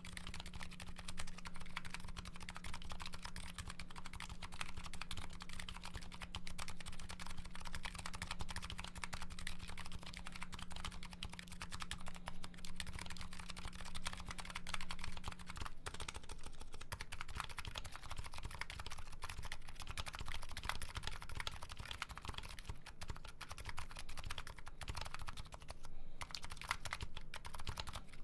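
Continuous typing on a Nuxros Kraze custom keyboard with MetaKeebs MetaPulse electrocapacitive (EC) switches: a steady stream of key presses. A faint low hum sits under the first half and stops about halfway through.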